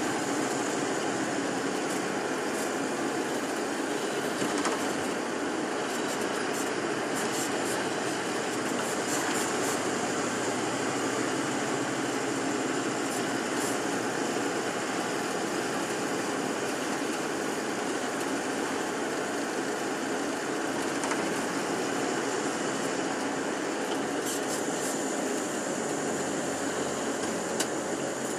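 Steady engine and road noise heard from inside a moving tour bus, with a few faint clicks and rattles.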